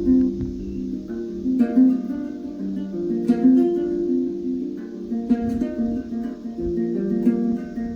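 Background music: plucked acoustic guitar playing a picked melody over held notes.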